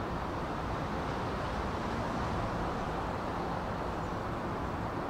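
Steady rumble from a JR West 323 series electric train, even throughout with no distinct knocks or tones.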